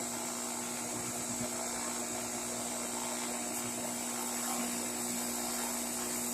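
Craftsman bench grinder running steadily with no work on the wheel: an even motor whir with a constant hum.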